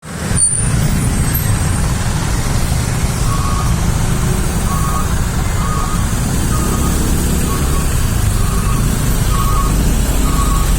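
Rumble of heavy, slow road traffic, with engines running in a jam. From about three seconds in, a short electronic beep repeats roughly every three-quarters of a second, like a vehicle's reversing alarm.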